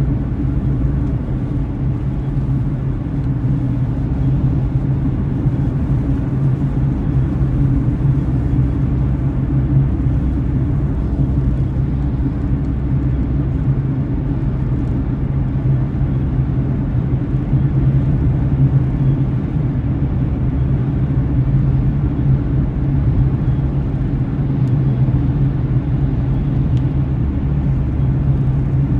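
Steady rumble of a car driving, with engine and tyre noise heard from inside the cabin by a dashcam microphone.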